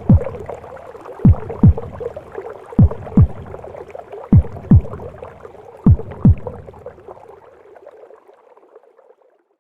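Mother's heartbeat as heard in the womb: paired lub-dub thumps, about one pair every one and a half seconds, over a whooshing womb noise. The beats stop after about six seconds and the noise fades almost away near the end.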